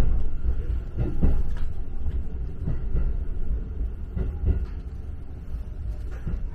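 Electric local train heard from inside the passenger car: a steady low rumble of the running gear, with occasional short knocks from the wheels and car body.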